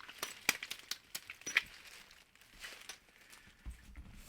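A run of light, sharp clicks and taps, thick in the first second and a half, then thinning out to a few soft knocks.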